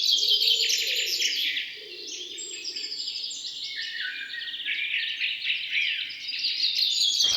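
A chorus of wild birds chirping and calling at once, with many short, high calls overlapping. It grows quieter about two seconds in and picks up again near the end.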